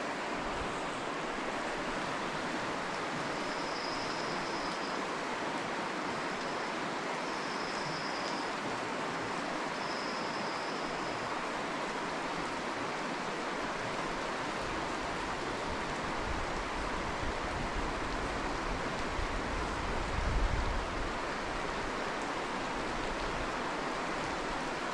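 Steady rush of river water. Three faint short high peeps about four, eight and ten seconds in, and a low gust of wind on the microphone about twenty seconds in.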